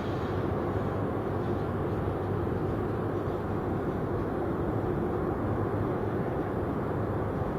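Jet aircraft engines, a steady rumble.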